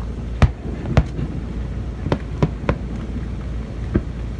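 Fireworks shells bursting: about six sharp bangs at uneven intervals, two close together in the first second and three more in quick succession a little past the middle, over steady low background noise.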